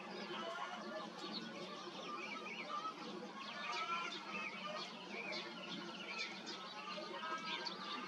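Many birds chirping and calling at once, in short, quick, overlapping chirps.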